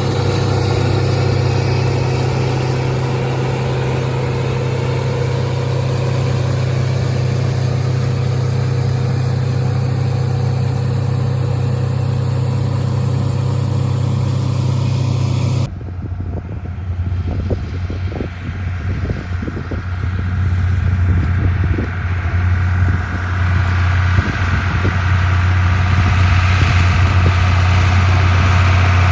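Farm tractor engine running steadily. A little past halfway the sound switches abruptly to a lower, rougher engine note with irregular rattling and knocking, which grows louder toward the end.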